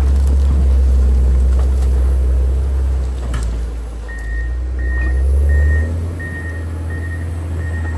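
John Deere 670 motor grader's diesel engine running steadily under load. About four seconds in, its reversing alarm starts beeping, about three beeps every two seconds, and the engine note shifts a little after that.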